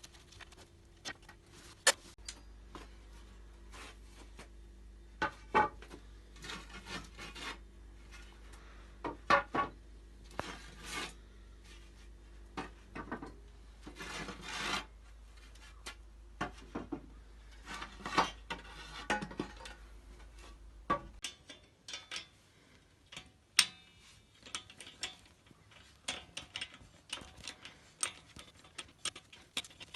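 Irregular hand strokes of scraping or rubbing, each under a second long, with scattered sharp clicks and knocks between them, typical of old finish being worked off a bench by hand.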